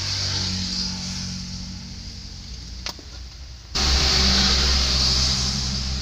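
Vehicle engine running steadily with a low hum. There is one sharp click just before three seconds in, and the sound gets suddenly louder a little before four seconds in.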